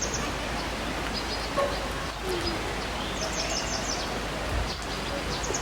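Mountain river rushing over rocks in a steady hiss. A small bird calls a quick series of high notes about three seconds in and again near the end.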